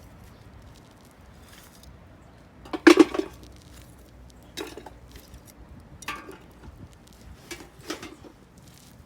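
Metal camp gear being handled: a loud clattering knock about three seconds in, then several lighter clinks and knocks.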